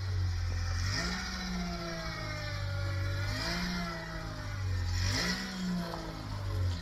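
An engine idling and revved three times, its pitch rising briefly and dropping back to idle each time.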